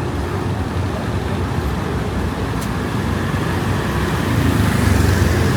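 Steady rumble of road traffic, growing louder over the last second or so as a vehicle comes closer.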